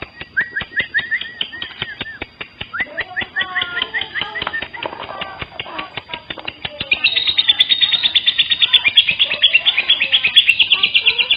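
Lovebird singing: a fast series of short, sharp chirps. About seven seconds in it turns louder and denser, into a long, rapid run of high notes.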